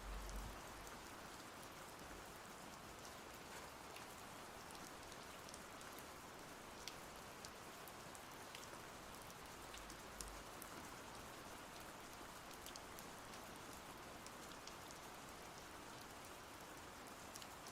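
Steady, faint rain falling, with individual drops ticking sharply here and there.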